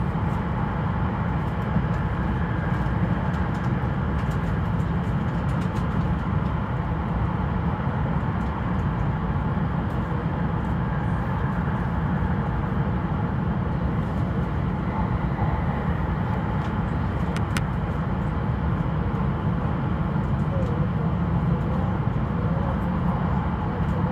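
Steady low rumble of an E5 series Shinkansen running at reduced speed, heard from inside the train.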